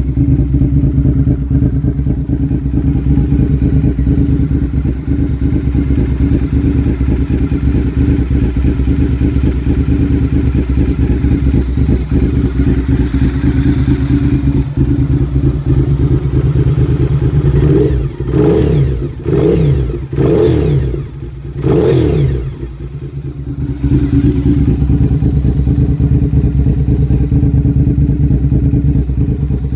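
Honda VTR1000 SP1 (RC51) 90-degree V-twin idling steadily through aftermarket Ladybird MotoGP-style exhausts. About eighteen seconds in the throttle is blipped four times in quick succession, the revs rising and falling each time, before it settles back to idle.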